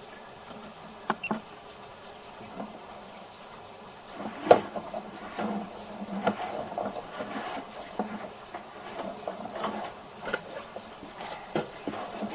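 Sewer inspection camera's push cable being fed through the drain pipe: faint steady hiss, then irregular clicks, scrapes and knocks, with a sharper knock about four and a half seconds in.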